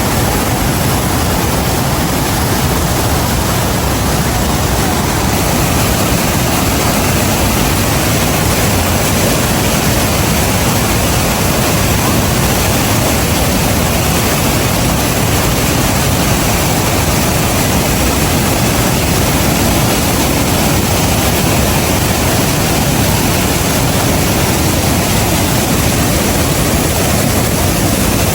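The Rhine Falls, a large waterfall, pouring: a loud, steady, unbroken rush of water noise.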